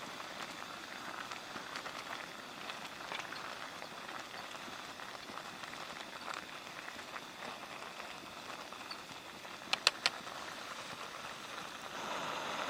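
A steady noisy hiss with scattered faint ticks. A quick cluster of three sharp high clicks comes about ten seconds in.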